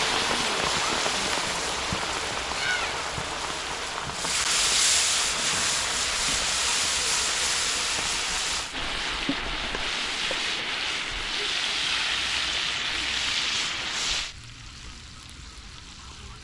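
Water pouring and splashing with a steady rushing hiss that rises and falls in strength, stopping suddenly about two seconds before the end.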